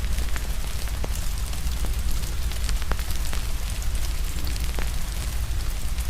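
Steady rain mixed with a crackling fire: irregular sharp pops and snaps over an even hiss and a low, steady rumble.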